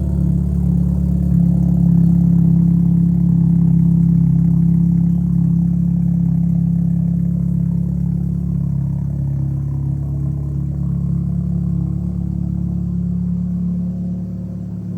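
Volkswagen Passat engine idling steadily just after a cold start, its level slowly easing down as it settles.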